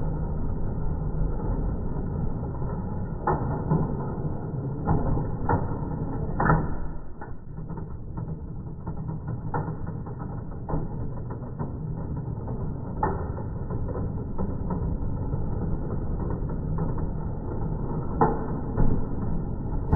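Small electric motor and gears of a Lionel motorized reversing car running along toy train track, a steady mechanical whir with sharp clicks every one to three seconds.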